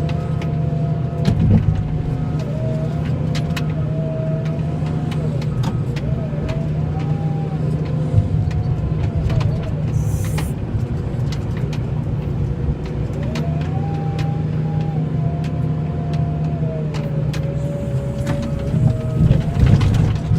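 Tractor engine running steadily, with a whine that slowly rises and falls in pitch and scattered clicks and knocks.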